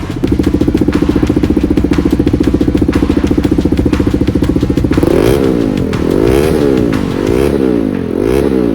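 Bajaj Dominar 400 single-cylinder engine breathing through an aftermarket SC Project exhaust: it runs steadily for about five seconds, then the throttle is blipped four times, each rev rising and falling.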